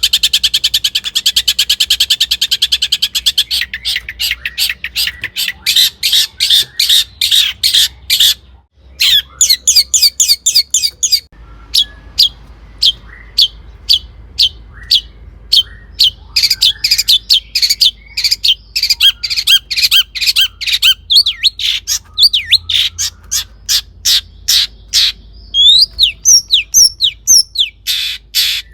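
Long-tailed shrike (cendet) singing loudly: a very fast chattering trill for the first few seconds, then runs of sharp, high repeated notes several a second, turning to short falling notes near the end.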